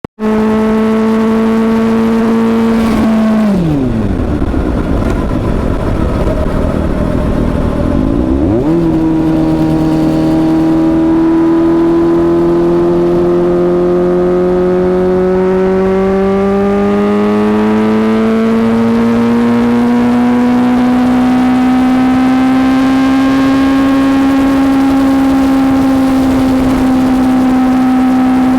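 Suzuki GSX-S750's inline-four engine under way: steady pitch, a sharp drop in revs about three seconds in, a few seconds low and rough, then revs rise again around nine seconds and climb slowly before levelling off.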